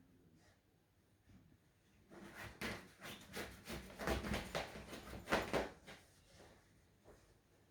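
A shih tzu puppy playing with a toy: a run of quick scraping and rustling noises that starts about two seconds in, is busiest a little past the middle and stops about two seconds before the end.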